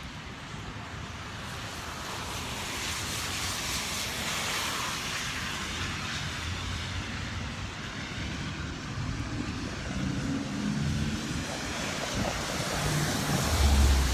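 Traffic on a wet road: tyre hiss swells as a vehicle passes and fades again, with low engine hum from traffic later on. A loud low thump comes just before the end.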